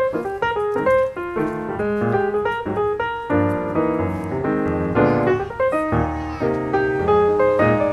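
Background piano music: a quick, busy run of notes over a steady bass line.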